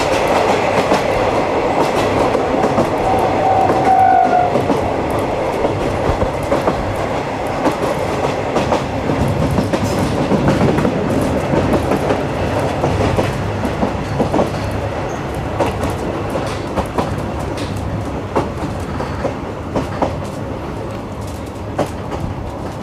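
Rolling noise of a 50-series passenger coach heard from inside, with the clickety-clack of wheels over rail joints. A brief high tone sounds about three seconds in.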